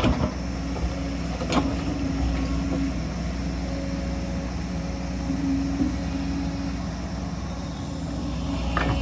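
Hydraulic excavator's diesel engine running steadily under work, with a few sharp knocks: one at the start, one about a second and a half in, and one near the end.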